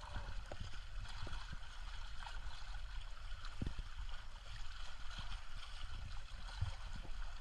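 Wind buffeting the microphone as a steady low rumble over a wash of shoreline water, with a few faint clicks.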